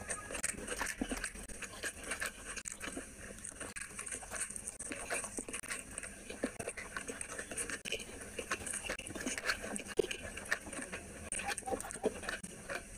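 Close-miked chewing of rice and curry eaten by hand, with many short, irregular wet mouth clicks and smacks. Fingers work rice and curry together on the plate.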